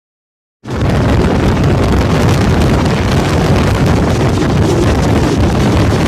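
Loud wind buffeting the microphone at the open door of a moving passenger train, over the train's low running rumble. It cuts in suddenly about half a second in, after dead silence.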